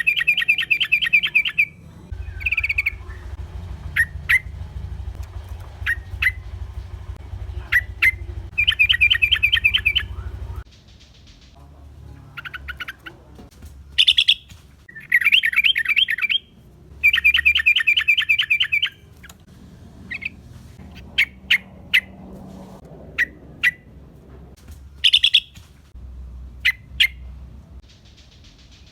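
Yellow-vented bulbul calling: repeated bursts of rapid chattering notes, each about two seconds long, with single sharp notes in between. A low hum sits under the calls from about two seconds in until about ten seconds in.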